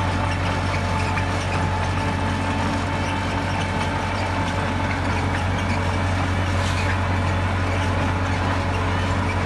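Diesel engine of heavy earth-moving equipment running steadily, a constant low drone.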